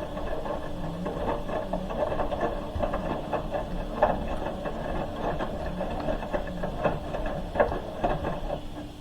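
Hoover H-Wash 300 Plus washing machine mid-wash: the drum motor turns the drum with a wavering hum while the load tumbles, with many irregular clunks and knocks.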